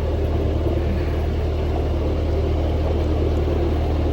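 Narrowboat engine running steadily under way, a low, even drone.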